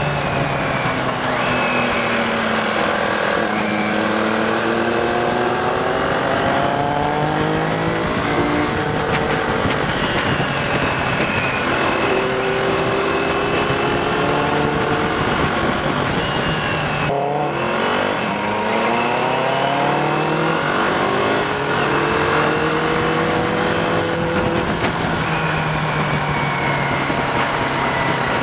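Inline-four engine of a DSK Benelli TNT 600i with an aftermarket IXIL exhaust, heard while riding: revs rise and fall repeatedly through gear changes, with a brief drop when the throttle closes about two-thirds of the way through, over steady wind and road noise.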